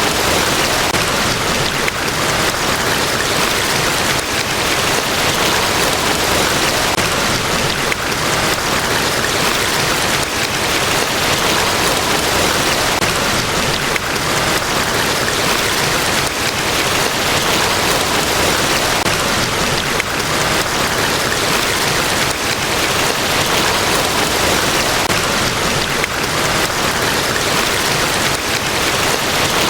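Niagara Falls: a large waterfall's steady, loud rush of falling water, an even, unbroken roar with no separate events.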